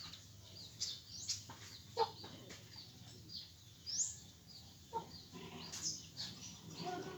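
Birds calling in short, irregular notes: high quick chirps and rising sweeps mixed with a few lower calls, and an occasional sharp click.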